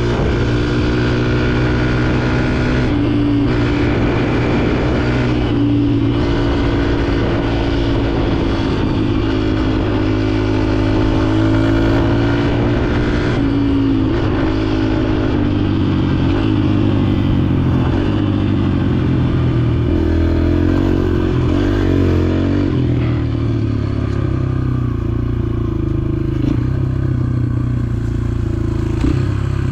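Dirt bike engine running under way, its pitch rising and falling as the rider works the throttle, with short breaks in the sound a few times.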